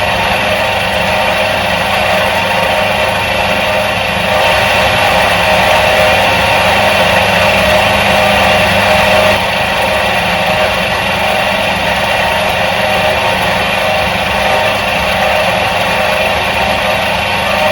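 Motor of a 1977 Soviet washing machine running steadily, a constant hum with several held tones. It gets a little louder about four seconds in, then drops back suddenly after about five seconds.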